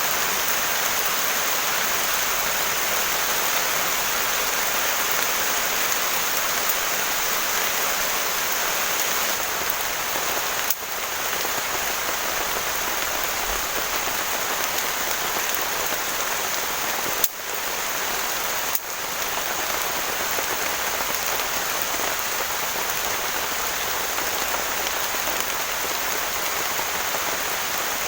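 Heavy rain pouring steadily, with three brief dips in level about a third and two-thirds of the way through.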